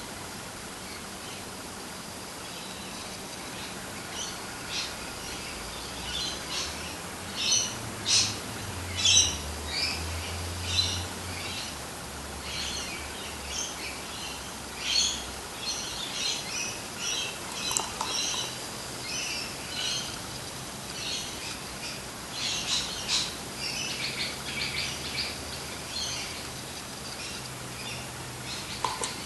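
Birds chirping in many short, irregular calls, starting a few seconds in and running on, over a steady background hiss.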